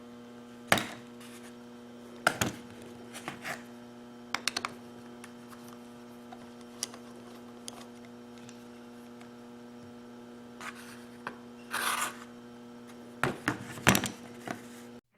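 Hand tools and small metal carburetor parts clicking, tapping and scraping on a workbench as a Mercury/Mariner WME outboard carburetor is worked on, over a steady electrical hum. A brief hiss comes about twelve seconds in.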